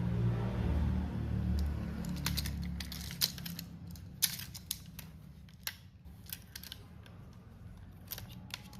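HO-scale model train running on the track: a low rumble that fades away over the first three seconds, with scattered sharp clicks of the wheels on the rails continuing after it.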